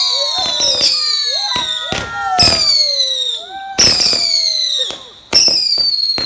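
Fireworks going off: a rapid run of sharp bangs and cracks with whistles that fall in pitch, a new whistle starting about every second and a half.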